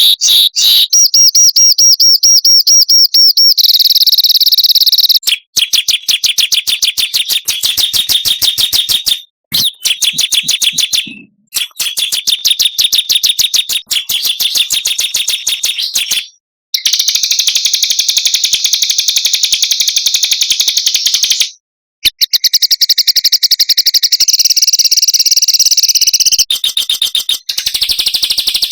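Small songbirds singing dense, very fast high-pitched trills and rolls of rapid repeated chirps, in several stretches that break off abruptly into short gaps, as in an edited song-training track.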